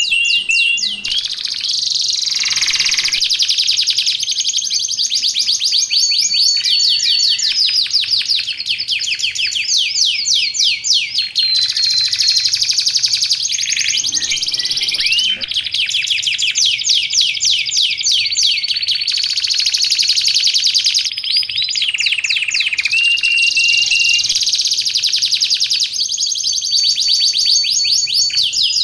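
Domestic canary singing a long unbroken song of rapid trills and fast repeated notes, mixed with a few short held whistles.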